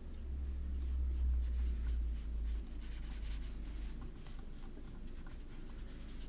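Soft, irregular scratching of colouring strokes on paper, with a low rumble during the first couple of seconds.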